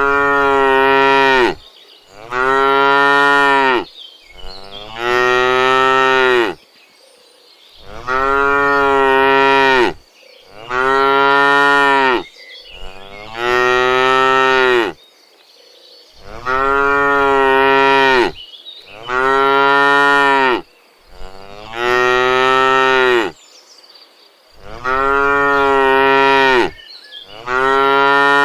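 Cows mooing loudly over and over, about a dozen long moos each lasting a second or two, with short pauses between them.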